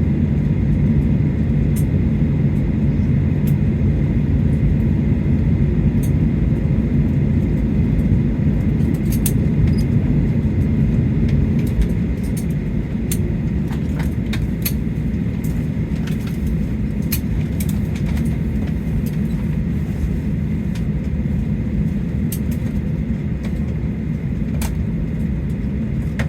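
Cabin noise inside a Boeing 737-800 after landing: a steady low engine rumble that drops a little about twelve seconds in, with scattered light clicks and knocks.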